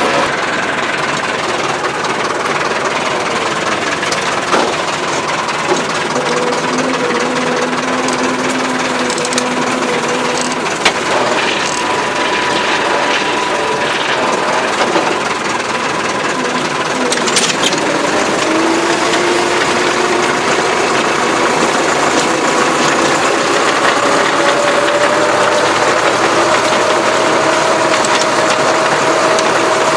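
Massey Ferguson tractor engine running steadily under load while working soil, with a few sharp knocks and clatters. The engine pitch dips near the start and rises steadily over the last third as it picks up revs.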